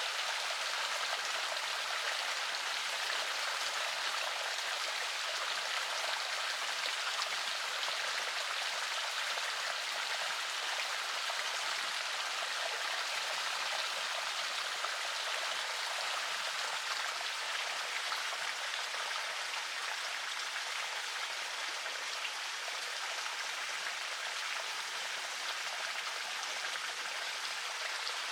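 River water flowing steadily: an even, hissy rush of running water with no deep rumble and no breaks.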